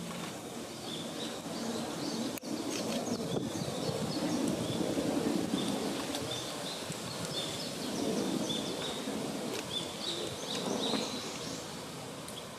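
Woodland ambience: small birds give short, repeated high chirps over a steady low background hiss, with one sharp click about two seconds in.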